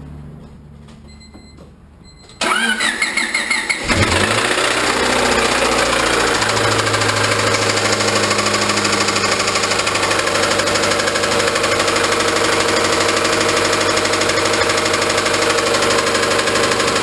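Honda Civic's D16Y8 four-cylinder engine being cranked by the starter for about a second and a half, catching about four seconds in, then running steadily with a rod knock, the sign of a failed connecting-rod bearing.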